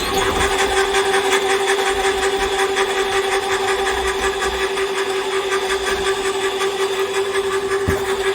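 Electric cable-stripping machine running steadily with a constant motor hum as it pulls earth cable off a drum and strips it. A single brief knock near the end.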